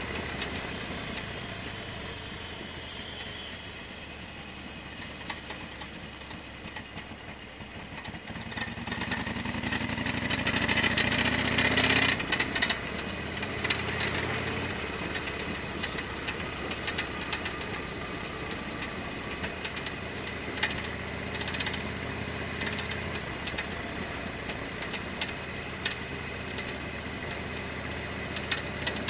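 Harley-Davidson Sportster XL1200R's air-cooled V-twin engine running, its pitch rising from about a third of the way in, then dropping back and running steadily. Frequent sharp ticks sound over it, which fits the knock the owner suspects is something on the bike striking.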